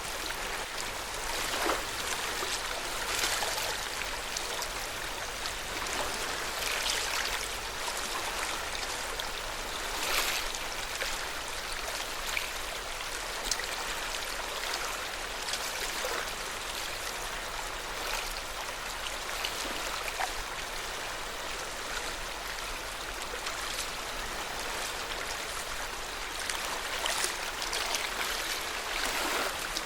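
Lake water lapping and splashing softly at the shore of Lake Yamanaka, a steady wash broken by frequent small splashes.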